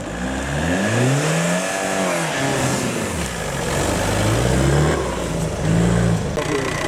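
Off-road competition vehicle's engine revving hard twice. The pitch climbs and falls over the first three seconds, climbs again and holds briefly, then drops away near the end.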